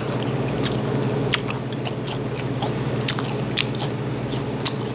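Close-miked chewing of crispy fried smelt gangjeong (smelt fried and coated in sweet-spicy sauce), with irregular crisp crunches. A steady low hum runs underneath.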